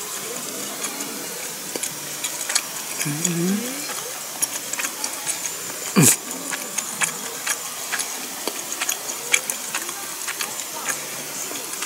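A person eating: chewing with many small, scattered clicks, a short rising hum from the voice about three seconds in, and one thump about six seconds in.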